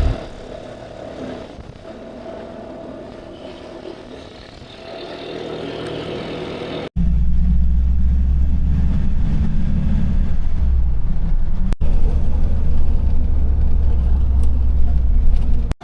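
Vehicle travel noise in cut-together clips: about seven seconds of a moderate hum with a few steady tones, then, after a sudden cut, a loud low rumble that runs on with one brief break.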